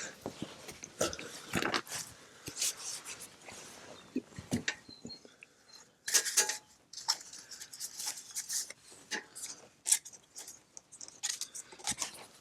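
Irregular knocks, clicks and rustles of camp gear being handled, with sharp clinks loudest about six and ten seconds in.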